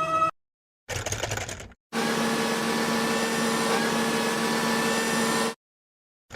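Edited sound effects separated by short dead-silent gaps: a brief rattly burst, then a steady mechanical whir with a low hum for about three and a half seconds that cuts off suddenly.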